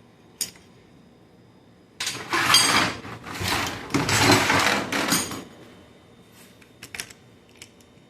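A tool spinning out the pre-loosened bolts of the fifth-gear shift fork on a Chevrolet Cobalt manual gearbox: dense rapid rattling in several bursts lasting about three and a half seconds, then a few light metal clinks near the end.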